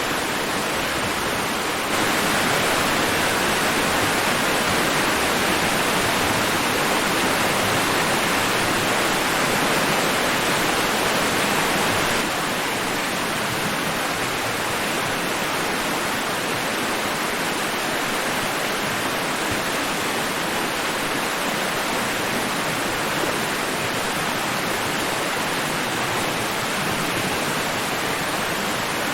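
Steady rushing white noise of a sleep-sound track, even across high and low pitches, with no rise and fall of breaking waves. It jumps abruptly louder about two seconds in and drops back just as suddenly about twelve seconds in.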